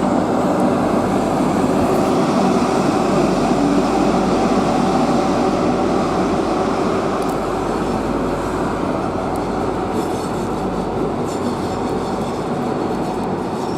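Class 43 HST power car's diesel engine running under power as the train pulls away, a loud steady drone that eases slightly near the end.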